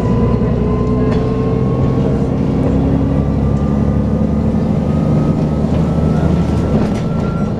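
Dennis Trident 2 double-decker bus running under way, its engine and drivetrain giving the vacuum-cleaner-like "hoover" whine, which climbs slowly in pitch as the bus gathers speed.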